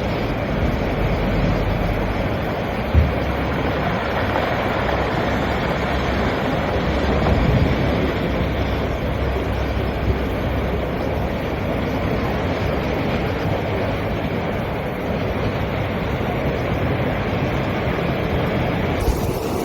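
Sea waves washing against rocks, with steady wind and low gusts buffeting the microphone.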